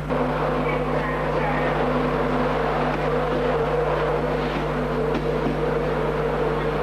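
A railway locomotive running, a steady drone with two held tones over a rumbling noise.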